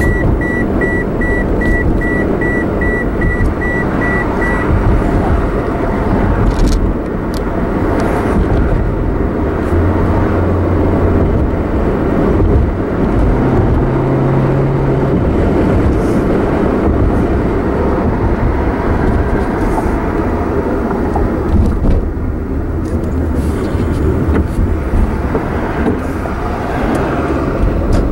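Car driving, heard from inside the cabin: steady engine and road noise. A high electronic beep repeats about twice a second for the first few seconds, then stops.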